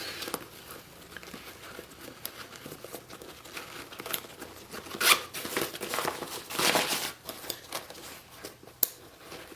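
A soft fabric tail bag and its contents being handled: rustling and crinkling, with scattered light clicks and a couple of louder swishes about five and seven seconds in.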